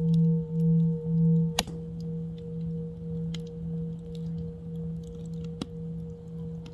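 Singing bowl ringing with a steady low hum that pulses about twice a second. A sharp click about a second and a half in, after which the ring carries on quieter with a gentler wobble; faint crackles of a campfire underneath.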